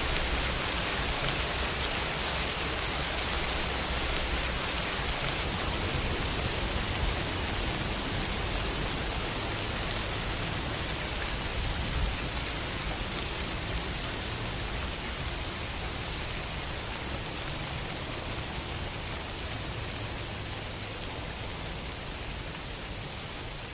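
Steady heavy rain, an even dense hiss of drops with a low rumble underneath, easing slightly in loudness over the stretch.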